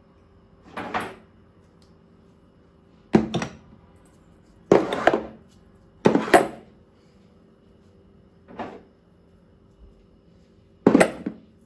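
Storage containers being set down and shifted in a kitchen drawer: about six separate knocks and clatters, a second or two apart, some with a short scrape.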